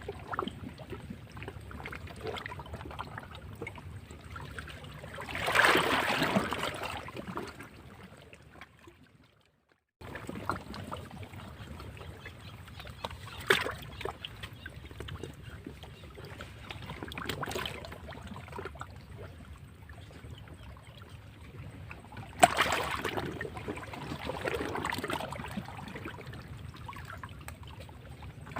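Sea waves washing and splashing against rocks, in uneven swells with a few sharp splashes. About a third of the way through, the sound fades almost to silence and then comes back abruptly.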